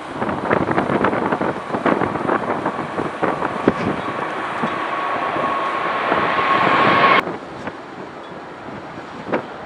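Heavy wind buffeting the microphone while a jet airliner's engines grow louder with a steady whine, which cuts off abruptly about seven seconds in; gusts carry on after.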